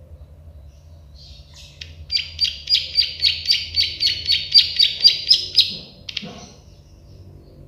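Plain prinia (prenjak sawah) singing its 'klik-klik' song: after a few lead-in notes, a run of about sixteen short, evenly spaced notes, some four a second, lasting nearly four seconds, then two stray notes. A faint low hum underlies it.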